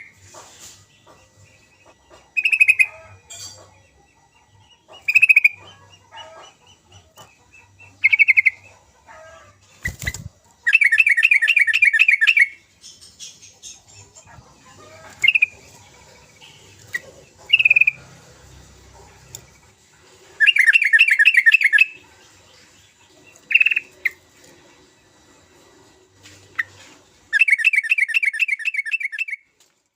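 Yellow-vented bulbul (trucukan) song: short bubbly calls every few seconds and three longer, fast chattering phrases of about two seconds each. There is one sharp knock about ten seconds in.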